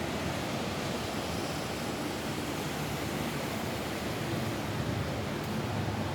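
Steady rain falling on a roof: a dense, even hiss with slight swells in level.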